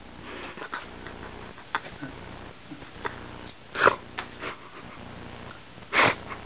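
A person's breath: two short, sharp blows of breath, about four and six seconds in, over faint room noise with a few small clicks.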